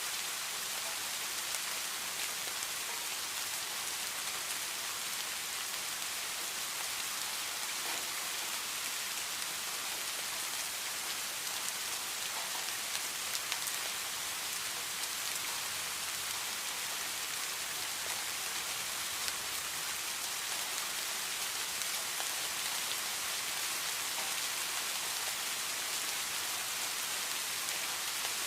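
Steady heavy rain falling, an even hiss with scattered drop ticks and no thunder.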